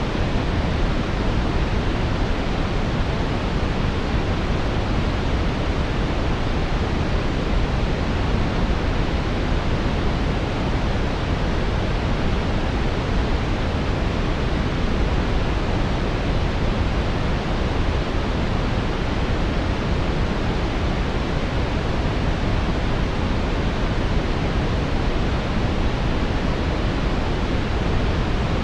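Synthetic brown noise: a steady, even rush weighted toward the low end, with no changes or events.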